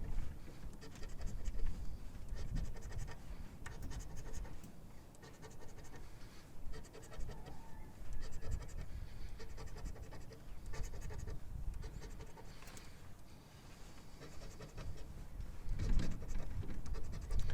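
Scratching the coating off a paper scratch-off lottery ticket, in many short, irregular scraping strokes.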